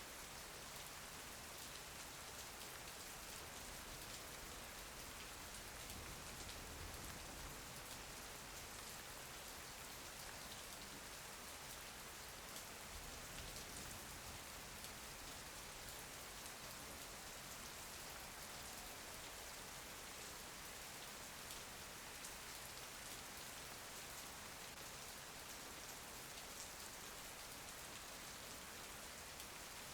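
Steady rain falling, soft patter of drops on a surface with fine ticking drops throughout.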